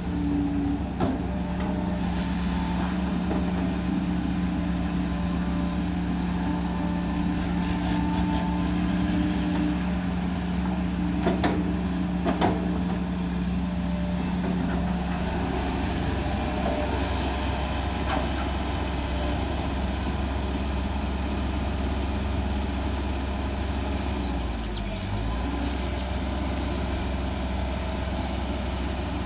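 Kobelco SK140 hydraulic excavator's diesel engine running steadily while it digs and loads soil, with a steady tone over the engine that stops about halfway through and a few knocks a little before that.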